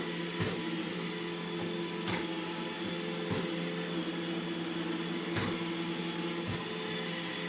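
iRobot Roomba E6 robot vacuum running steadily, its motor and brushes giving a constant hum, with a few light clicks over it.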